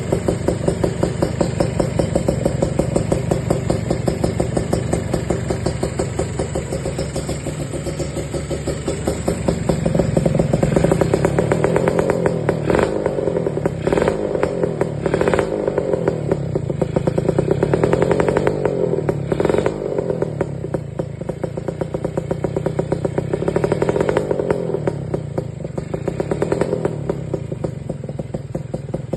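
Kawasaki Ninja motorcycle fitted with an SJR Thai-style aftermarket exhaust, running and being revved, its exhaust note swelling several times.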